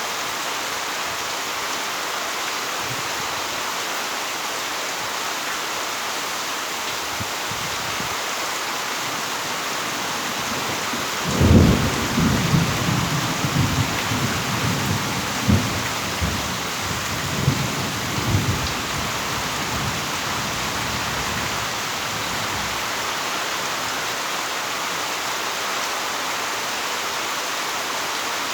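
Heavy rain falling steadily. About eleven seconds in, a roll of thunder starts suddenly and rumbles in several pulses for about eight seconds before fading back under the rain.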